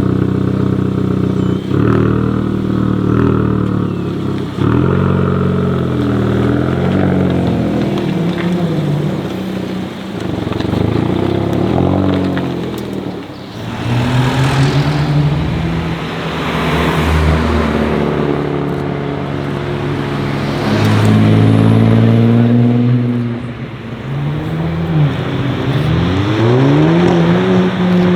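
Hyundai i30 N's turbocharged 2.0-litre four-cylinder engine revving and accelerating through its exhaust, its pitch rising and falling again and again.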